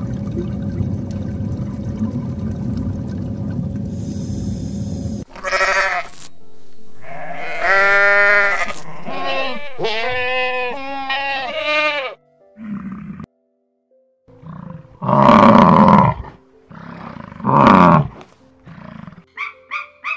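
A steady low rumbling noise for about the first five seconds, then a goat bleating over and over with a wavering pitch, with a few louder, harsher calls. Near the end a rapid run of short, repeated bird calls begins.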